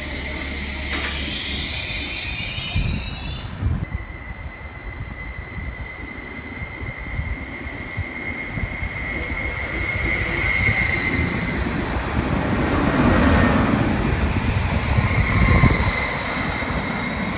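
Greater Anglia Class 755 multiple unit running along the platform and passing close by, growing loudest as it goes past near the end, with a steady high-pitched whine over the rumble of the wheels.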